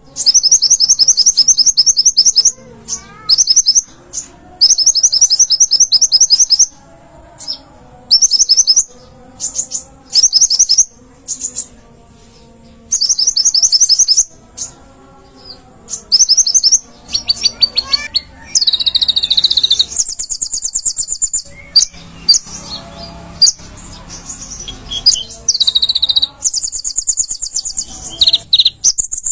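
A songbird singing loud, rapid, high-pitched trills in repeated phrases of a second or two, with short pauses between them.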